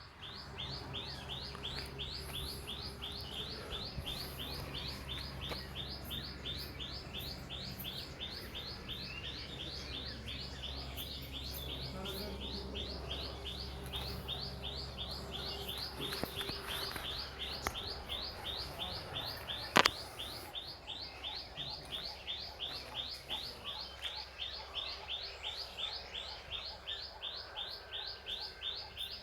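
A bird repeating one short, high chirp at an even pace, about two or three a second, without a break. A steady low hum runs underneath, and a single sharp click comes about twenty seconds in.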